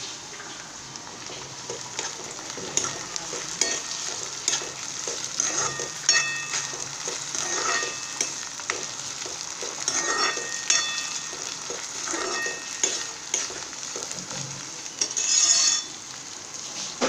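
Diced potato and onion sizzling in hot oil in a kadai, with a wooden spoon stirring and knocking against the pan again and again. The sizzle swells louder for a moment near the end.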